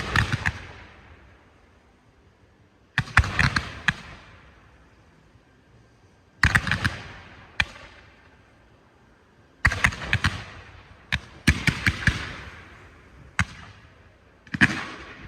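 Low-noise fireworks going off in volleys of sharp pops and crackles, a cluster every two to three seconds, each dying away quickly.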